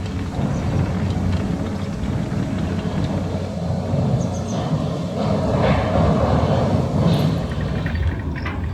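Cable haulage machinery of the Elbląg Canal inclined plane running: a steady low mechanical rumble, a little stronger in the second half.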